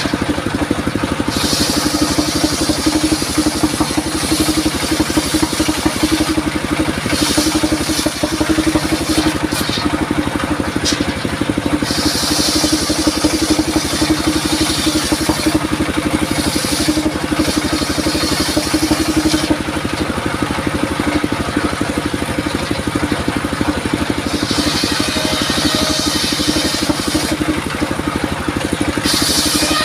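Engine-driven circular sawmill running steadily, with repeated stretches of high-pitched hissing, some a few seconds long and some brief, as the blade cuts through durian wood.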